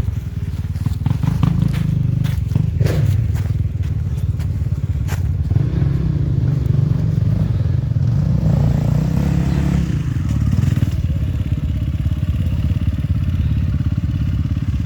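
Enduro motorcycle engine running, its note swelling and easing between about five and eleven seconds in. Sharp knocks and clatter sound in the first few seconds.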